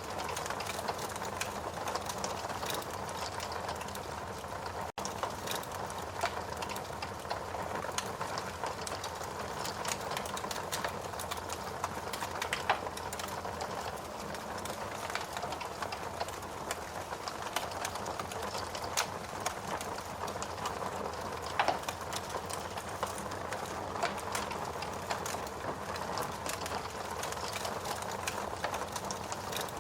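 Logs burning in a fireplace: a steady hiss thick with small crackles, and a couple of louder pops about 13 and 22 seconds in. The sound cuts out for a split second about five seconds in.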